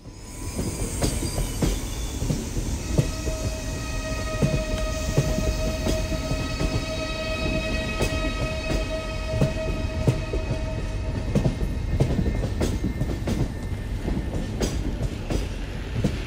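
A train running along track, its wheels clicking irregularly over the rails, with a steady whining tone from about three seconds in that stops near eleven seconds.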